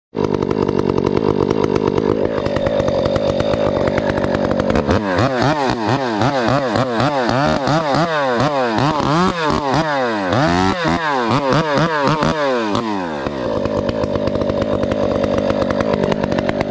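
Husqvarna 372XP two-stroke chainsaw with a ported muffler running at high speed. About five seconds in, its pitch starts swinging rapidly up and down over and over. It settles back to a steady high speed for the last few seconds.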